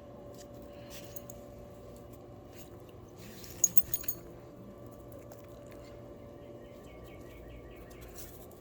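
Steady room hum, broken about three and a half seconds in by a quick cluster of four sharp clicks or taps, with a short run of faint rapid ticks later on.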